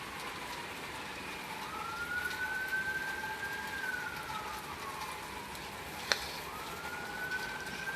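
Emergency vehicle siren in a slow wail, rising, holding and falling twice over a few seconds, over the steady hiss of rain. A single sharp click about six seconds in.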